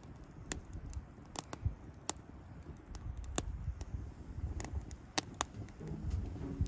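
Wood campfire crackling: irregular sharp pops and snaps, about one a second, over a low rumble. Faint music comes in near the end.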